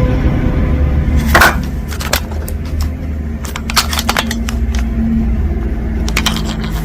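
Small hard objects clicking and knocking together as pieces of costume jewelry are handled, a scatter of sharp clicks over a steady low hum.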